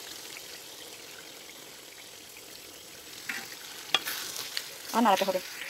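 Thick, sugary pickle sauce sizzling in a wok over low heat while a wooden spatula stirs it, with one sharp knock about four seconds in.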